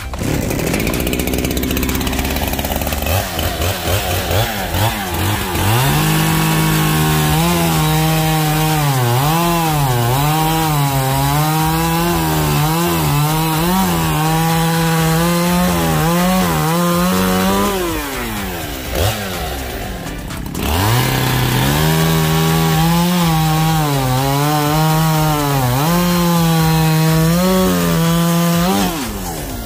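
Chainsaw cutting into a log, in two passes: the engine revs up about six seconds in, its pitch wavering as it bogs and recovers under load. It eases off around eighteen seconds, then revs up again for a second cut that stops near the end.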